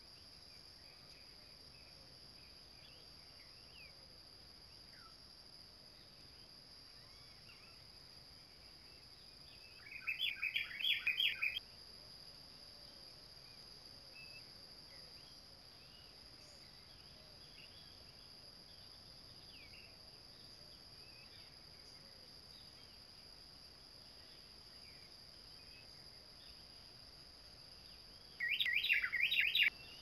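A bird calling in two loud bursts of rapid, stuttering notes, one about ten seconds in and one near the end, each lasting about a second and a half. Faint scattered chirps of other birds and a steady high-pitched hum sit under them.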